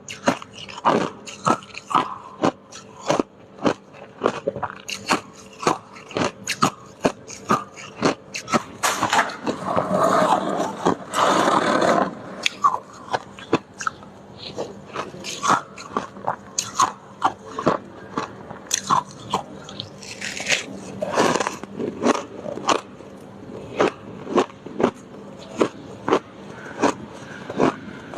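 Freezer icicles being bitten and chewed: a steady run of sharp, crisp crunches, one or two a second, with two longer stretches of dense grinding crunching, one about nine seconds in and one about twenty seconds in.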